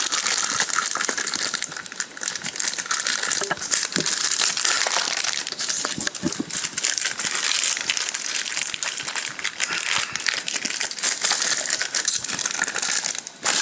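Packaging of a phone holster being ripped open by hand: continuous crinkling and crackling of the wrapping, with many small sharp clicks.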